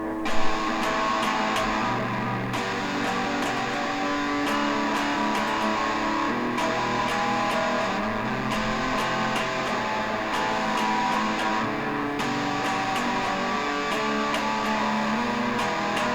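Instrumental guitar music: a strummed guitar intro playing a steady rhythm, with evenly repeating short ticks over the chords.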